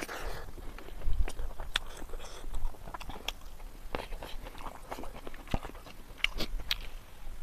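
A person chewing a mouthful of rice and chicken curry close to the microphone: irregular wet smacking clicks.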